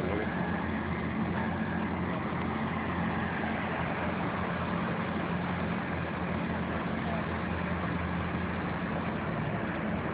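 Engine idling steadily, a low even hum with no revving.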